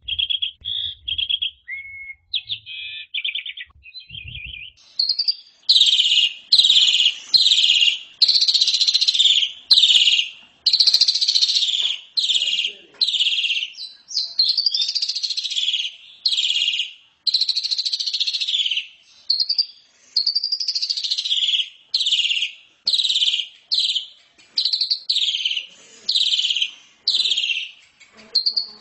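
Pied starling (jalak suren) in full song. It opens with a few seconds of short, varied chirps and whistles, then breaks into a long run of loud, rapid phrases, about one or two a second.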